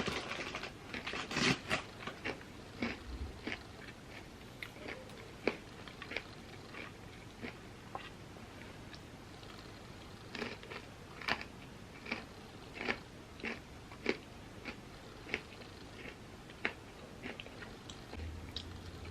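A person chewing crunchy chips close to the microphone: a run of sharp, irregular crunches, about one or two a second.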